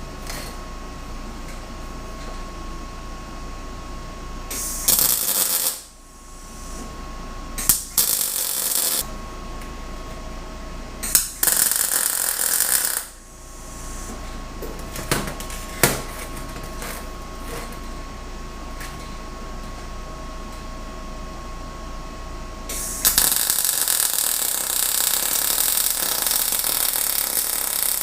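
Welding arc crackling in bursts over a steady shop hum: three short welds of about a second or two each, then a longer weld of about five seconds near the end, with a few sharp clicks between them.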